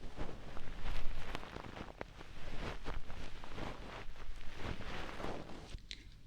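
Close-miked ASMR ear-cleaning sounds: irregular scratching and crackling strokes against the ear microphone, over a faint steady hum from a household appliance left running.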